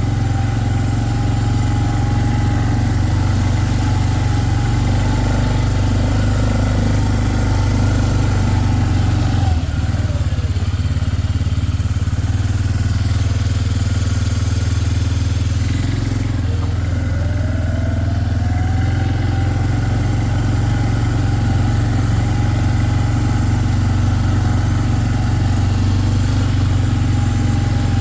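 A small vehicle's engine running close by. Its revs drop about ten seconds in and climb back up about six seconds later.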